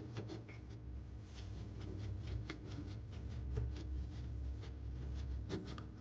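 Irregular light clicks and scrapes of hands and tools working on a top-load washing machine's new plastic pulsator as it is fitted and tightened, over a steady low hum.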